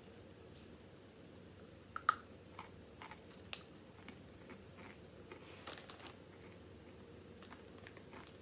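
Someone biting and chewing crunchy pretzel sticks, heard as faint, scattered crunches, with a few sharper ones about two and three and a half seconds in.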